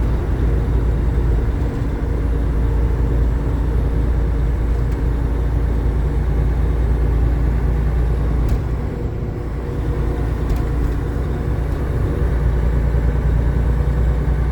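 Steady low rumble of a truck's engine and road noise inside the cab while driving, dipping slightly for a moment about two-thirds of the way through.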